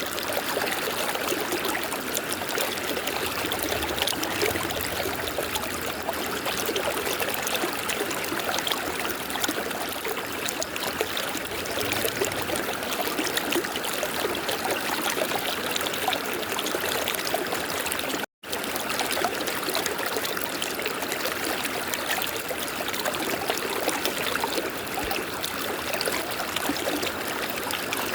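River water flowing steadily, with a split-second dropout to silence about two-thirds of the way through.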